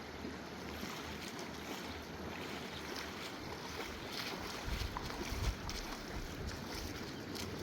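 Fast mountain river rushing as a steady wash of water noise, with wind buffeting the microphone in low rumbles about halfway through.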